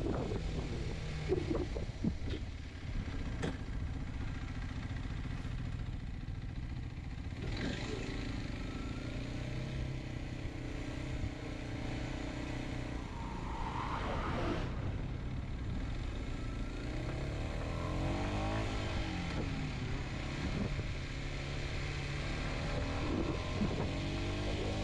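Kawasaki Z125's 125 cc single-cylinder four-stroke engine under way, its pitch rising and falling with throttle and gear changes.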